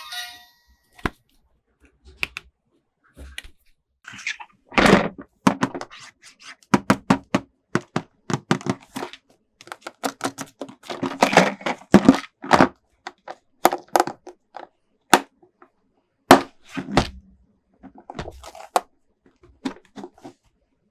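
Toy packaging and plastic toy parts being handled: an irregular run of sharp taps, knocks and clicks with short bursts of crinkling and tearing, busiest from about five seconds in.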